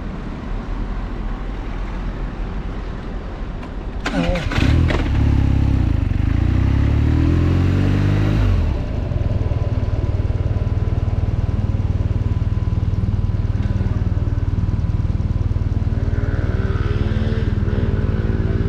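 BMW R nineT's boxer twin engine under way: a low rumble, then about four seconds in the throttle opens and the revs climb for about four seconds before settling into a steady cruising note.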